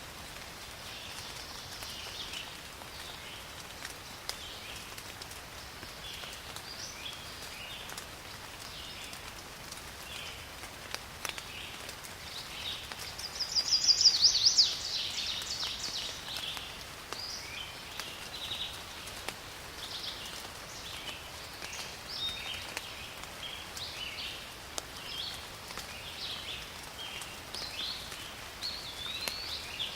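Steady rain falling in a forest, with birds chirping throughout and one loud, rapid bird call about halfway through.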